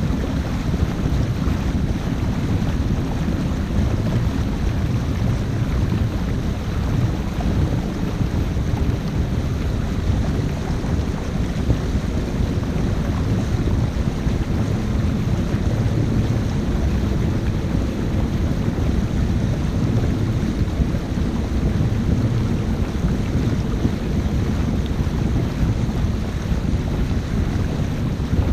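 Steady wind buffeting a GoPro Hero 5 microphone aboard a 50-foot sail and motor boat under way: a dense, fluttering low rumble with no clear engine tone.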